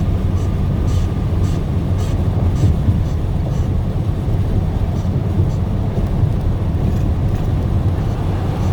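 Steady low rumble of a truck's engine and road noise inside the cab while driving.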